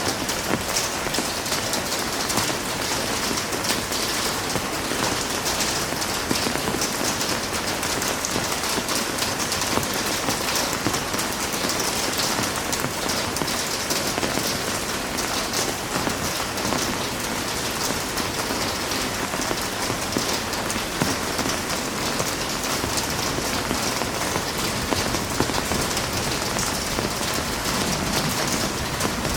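Heavy rain falling steadily, a dense patter of drops on a hard surface that stays even throughout.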